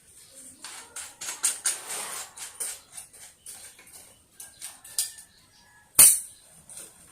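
Parts of an electric fan being handled and fitted together during assembly: irregular clicks and clatter, with one loud knock about six seconds in.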